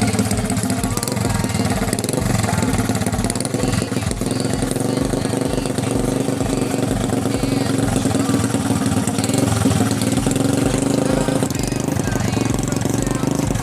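Honda Cub-based chopper's small single-cylinder engine idling steadily through a freshly fitted open 'bambu runcing' exhaust pipe, with an even, rapid beat.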